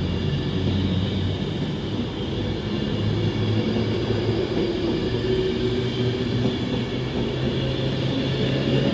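A train running past: a steady rumble of wheels on rail with a low engine or motor hum that steps up in pitch about halfway through.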